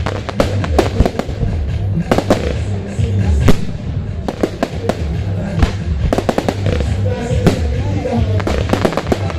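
Aerial fireworks going off in quick succession, many sharp bangs several a second, over show music with a steady pulsing bass.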